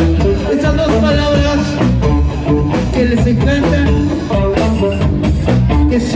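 Live rock band playing: drum kit, bass and guitar, with a voice singing over it.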